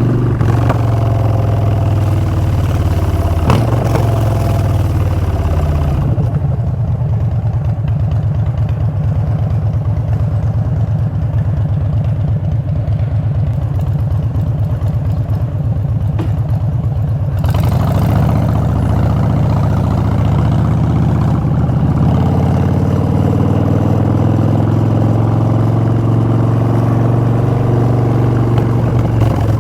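Harley-Davidson Street Bob's Twin Cam V-twin through Vance & Hines Short Shots exhaust. The engine slows with falling pitch in the first few seconds, settles to a low, steady idle for about ten seconds, then picks up again with rising pitch as the bike pulls away.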